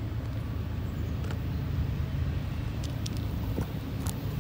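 Low, steady rumble of an approaching train, with a few faint clicks.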